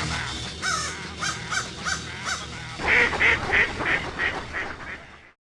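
A bird calling in a rapid series of short honking calls, about three a second, a softer run followed by a louder one, then cutting off abruptly.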